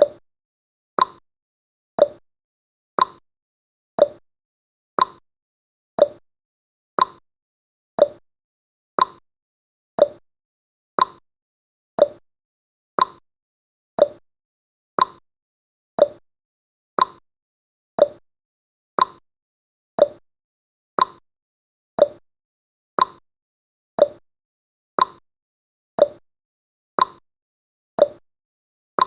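Countdown timer's clock-tick sound effect: one short, sharp tick every second, evenly spaced, each dying away quickly.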